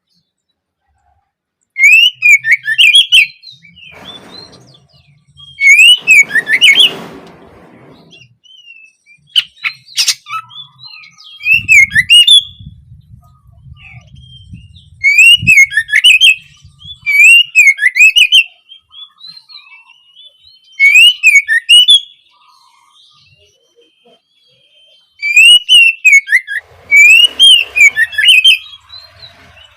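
Oriental magpie-robin (kacer) singing: repeated phrases of quick, slurred whistled notes sung in bursts with short pauses between.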